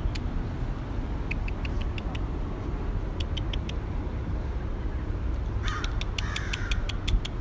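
American crows calling at a hawk they are mobbing: runs of quick, sharp clicking notes, then a string of harsh caws near the end, over a steady low rumble.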